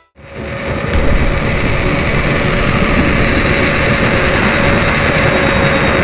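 Steady wind rush on the microphone with a constant high motor whine from a Veteran Sherman electric unicycle riding along at speed. It swells in over the first second.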